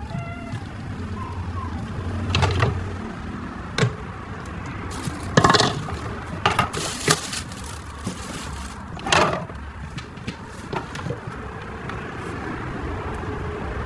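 Handling noises: irregular knocks and clicks with a short rustle about seven seconds in, over a low steady background hum.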